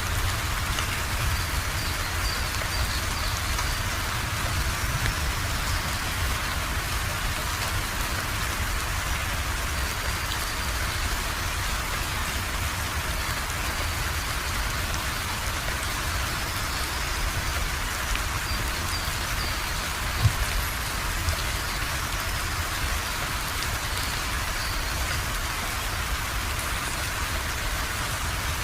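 Steady rain falling on a surface, a continuous even hiss. A single brief louder tap stands out about two-thirds of the way through.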